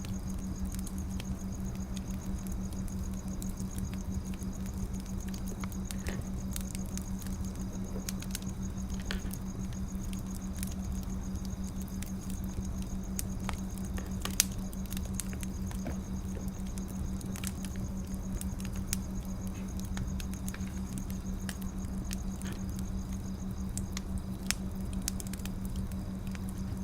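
Wood fire crackling: scattered irregular snaps and pops over a steady low rumble and a faint steady hum, with one sharper pop about halfway through.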